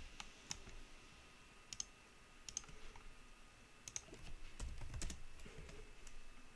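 Faint, scattered clicks of a computer mouse and keyboard, some in quick pairs, spaced about a second apart, with a small cluster near the end.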